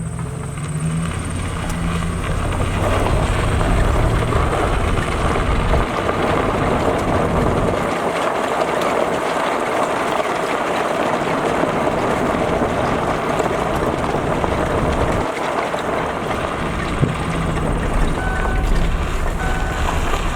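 A vehicle engine running as it is driven, with steady travel and wind noise, and a few short beeps near the end.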